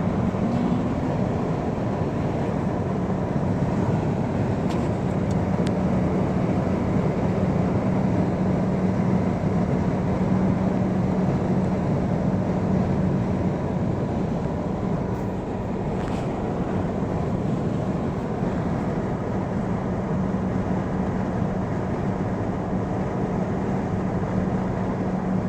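Steady vehicle noise with a constant low hum, unchanging throughout.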